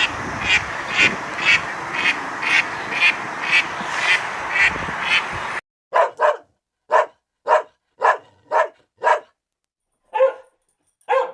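Animal calls in two clips: first, short calls repeated about twice a second over steady background noise; then, after an abrupt cut about five and a half seconds in, a series of short, separate calls on a quiet background.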